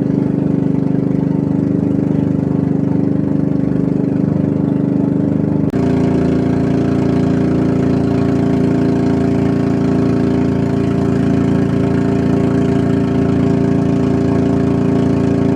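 A boat engine running loudly and steadily, with a sudden change in its tone a little over five seconds in.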